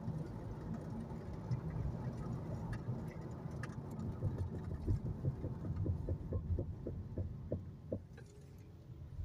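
Car brake making a strange rhythmic noise over the low rumble of the car rolling: short, repeated pulses that come more slowly as the car slows, stopping about eight seconds in as it comes to rest.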